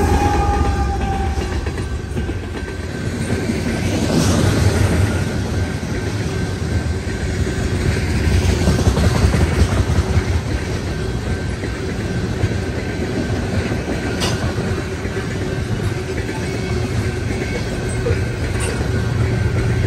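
Freight train of tank cars rolling past at speed: a steady rumble and rattle of steel wheels on the rails, with occasional sharp clicks of wheels over rail joints. The trailing diesel locomotive's engine fades in the first couple of seconds.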